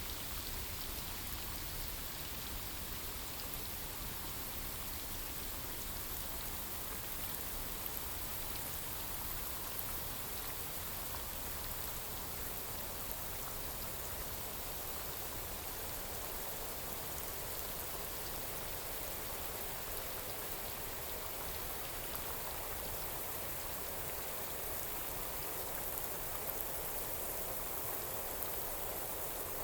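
Steady rain falling on forest foliage, an even patter of raindrops.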